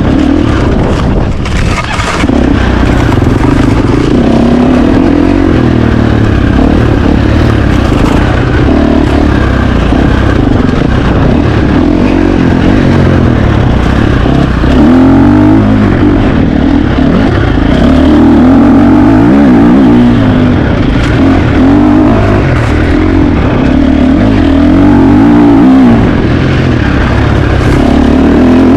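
2025 KTM 350 XC-F single-cylinder four-stroke dirt bike engine, ridden hard, its pitch rising and falling over and over as the throttle opens and closes. A few sharp knocks come about a second in.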